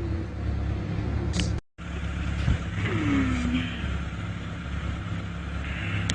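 Car engine and road noise running steadily, broken by a brief silent cut under two seconds in, with a short falling tone about three seconds in and a few sharp clicks near the end.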